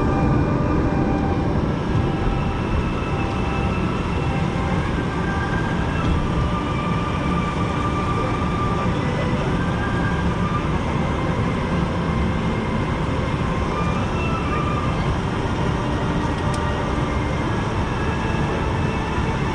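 Steady aircraft noise inside the passenger cabin of a De Havilland Canada Dash 8-400 turboprop: a loud, even hum and rush.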